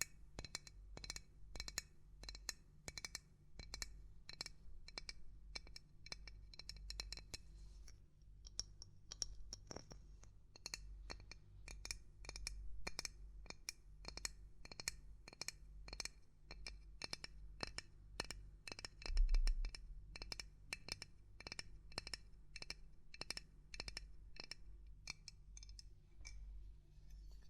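Fingers or a hard tip tapping and knocking irregularly on small hard objects, several quick taps a second. For about the first eight seconds each tap rings with a clear tone; after that the taps change to a drier sound, with one heavier knock that has a low thud about two-thirds of the way through.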